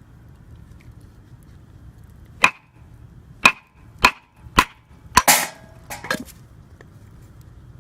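Hard firewood being struck to split it: about seven sharp wooden knocks, spaced roughly half a second to a second apart, with a longer splintering crackle just after the fifth.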